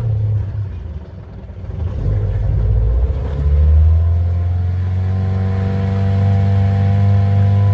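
Small boat's petrol outboard motor running, picking up speed about three and a half seconds in and then holding a steady, higher drone.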